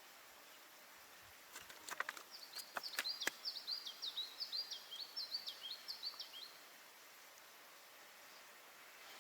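A bird singing a quick run of short, repeated down-slurred high notes for about four seconds, with a few sharp clicks just before and at the start of the song.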